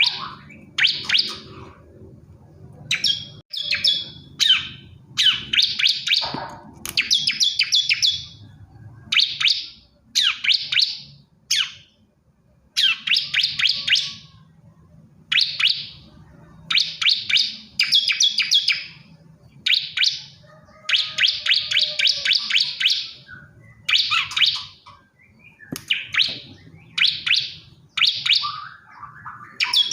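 Male bar-winged prinia singing: short phrases of quick, high chirping notes, repeated over and over with brief pauses between them.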